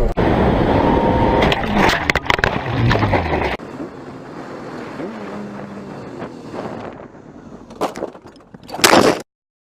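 Loud, noisy road and traffic sound with several sharp knocks about two seconds in. It turns quieter and steadier partway through, then a short loud burst comes just before the audio cuts off to silence.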